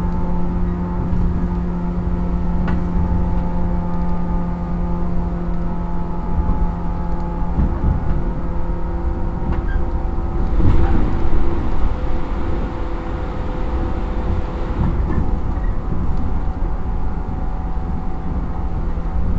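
Interior sound of a 115 series electric train's motor car (MoHa 114): a steady mix of humming tones over heavy low rumble, with a few faint clicks and a brief swell in loudness about halfway through.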